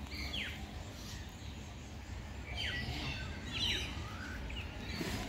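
Small birds chirping in the background: several short, sharply falling chirps, over a steady low rumble.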